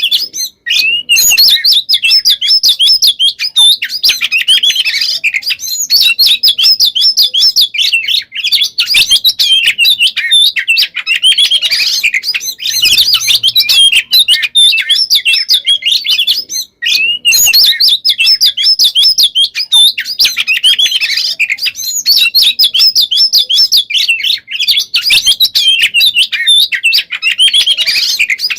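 Oriental magpie-robin (kacer) singing a fast, almost unbroken song of varied whistles, chirps and trills, with only a couple of brief pauses. This dense nonstop delivery is what kacer keepers call 'gacor konslet'.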